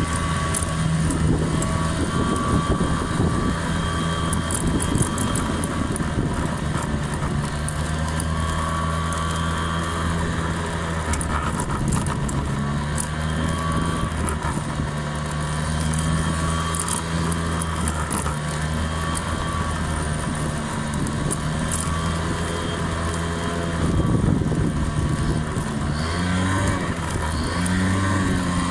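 Honda 50 cc scooter's small engine running steadily while riding, with broad noise over it. Near the end the engine note rises and falls with the throttle.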